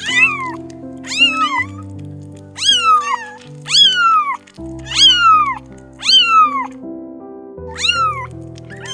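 A domestic cat meowing repeatedly, about seven meows roughly a second apart, each rising then falling in pitch. Background music with held low notes plays under it.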